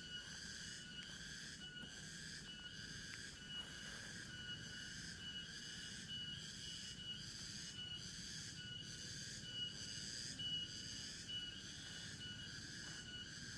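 Chorus of forest insects: a high-pitched trilling that pulses evenly about one and a half times a second, over thin, steady, lower whistling tones.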